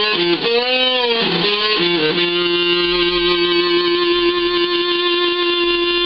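Electric guitar played through the PNP side of a breadboarded Schumann Two Face fuzz circuit: a bent note that swings up and back down, a few short notes, then one long fuzzed note held with sustain.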